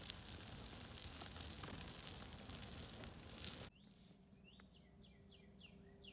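A steady hiss with scattered clicks that cuts off abruptly about three and a half seconds in. It gives way to quiet, in which a bird calls a quick series of short, falling chirps.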